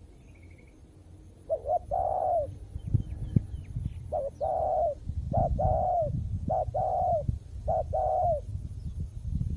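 Spotted dove cooing its repeated territorial call: short lead-in notes running into a longer coo, about six times from around a second and a half in. A low rumbling noise lies beneath, with a few faint high chirps from another small bird near the middle.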